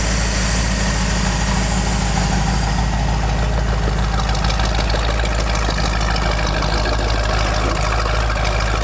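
Chevrolet small-block 350 V8 in a 1928 Ford Model A coupe hot rod, idling steadily with an even low rumble.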